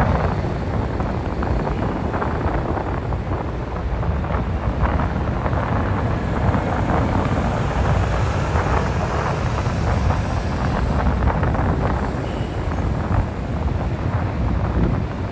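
Wind buffeting the microphone over a steady low rumble of engines as a car ferry is unloaded.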